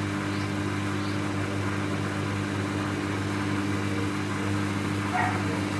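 Samsung front-load washing machine in the spin phase of a rinse-and-spin cycle, its drum motor running with a steady hum. A brief higher-pitched sound comes near the end.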